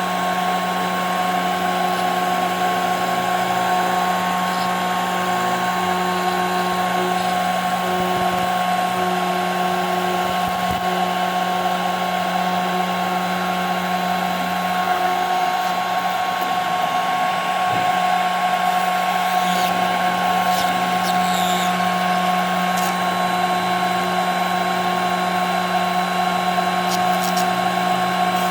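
CNC router spindle running steadily with a high whine, its bit milling through 5 mm plexiglass sheet, with faint high ticks of chips now and then in the second half.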